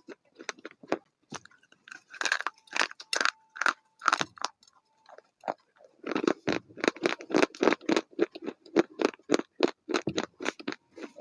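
Close-up chewing of crunchy food: a run of sharp crunches, sparse at first and then denser and louder about halfway through, at roughly three a second.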